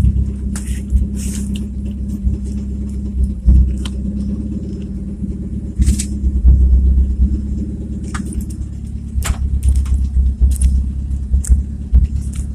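Old car's engine running with a loud exhaust that needs fixing, getting louder about six seconds in, with scattered clicks and rattles.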